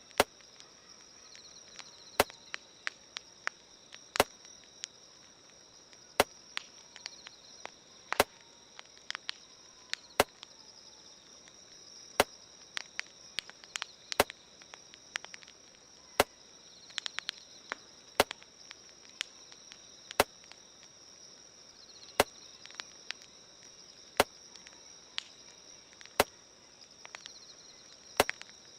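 Campfire crackling: sharp pops, the loudest coming evenly about every two seconds, with smaller irregular crackles between. Crickets or other insects chirp in a steady high drone throughout.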